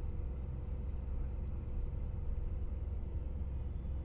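Steady low rumble of a car driving, engine and road noise, with a faint steady hum above it.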